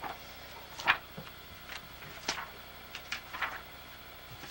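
Pages of a book being turned: several short paper rustles a second or so apart.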